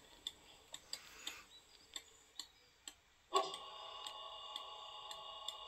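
Model diesel locomotive's sound decoder coming on: about three and a half seconds in, a steady electronic hum of several held tones starts suddenly, over a light ticking of about two clicks a second.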